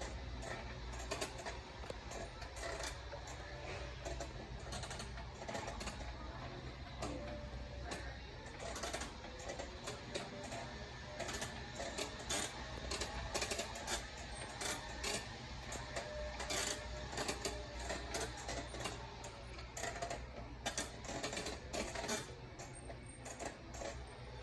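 Retail store ambience: faint background music over a steady low hum, with many irregular clicks and knocks.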